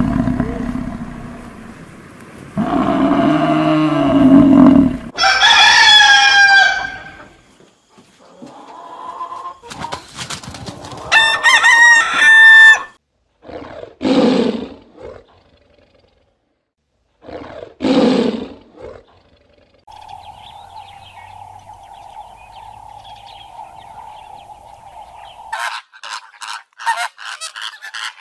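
A series of separate animal calls, among them a rooster crowing and chickens clucking.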